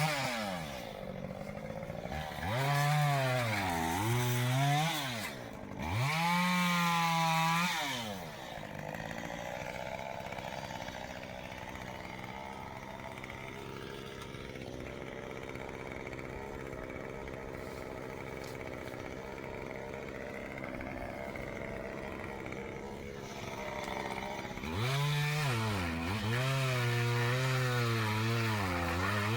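Two-stroke chainsaw revved to full throttle twice for a couple of seconds each, its pitch sagging and recovering within each burst. It then runs at a low, steady speed for about sixteen seconds before going back to full throttle near the end.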